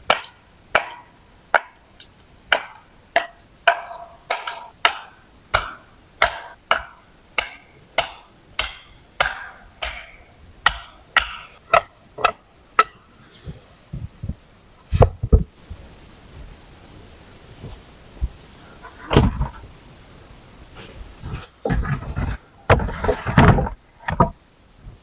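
A quick, even series of sharp knocks, a little over two a second, like a tool striking wood, that stops about halfway through; a few heavier thumps and a short rustle of handling follow near the end.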